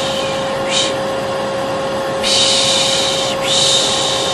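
Hair dryer running steadily with a constant whine, overlaid by repeated 'shh' shushing: three shushes, the first brief and the next two longer. It is white noise of the kind used to calm a colicky baby.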